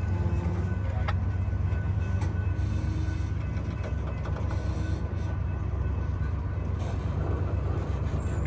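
Freight train's covered hopper cars rolling slowly past: a steady low rumble of steel wheels on rail, with faint squeals and a few clicks.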